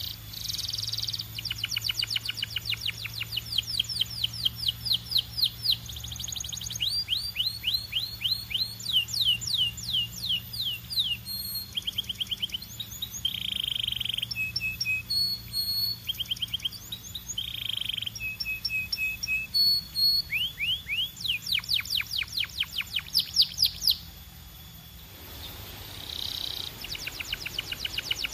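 Canary singing a long run of fast trills: rapid repeated down-sweeping notes alternating with short buzzy rolls. It breaks off for about two seconds near the end, then starts again, over a faint steady low hum.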